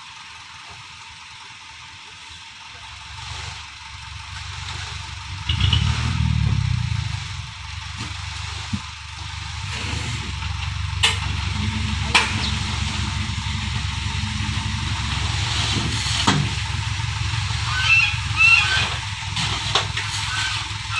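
Dump truck engine running: a low drone that builds and swells about five seconds in, then runs on steadily, with a few sharp knocks over it.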